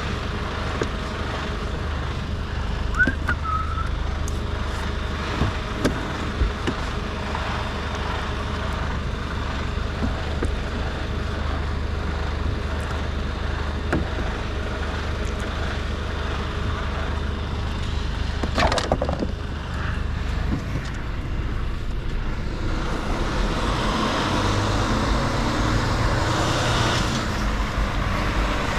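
Mercedes Actros L truck's straight-six diesel engine running steadily at low speed, with scattered clicks and knocks. About 19 seconds in there is a brief loud burst of noise, and from about 22 seconds the engine sound grows fuller and a little louder.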